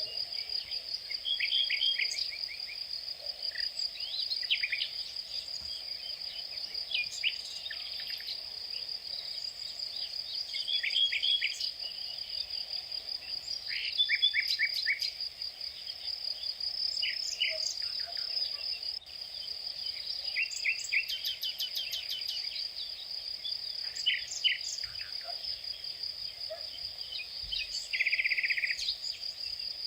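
Outdoor insect chorus: a steady, high, unbroken insect trill like a cricket's, with small birds chirping in short, quickly repeated notes on and off over it.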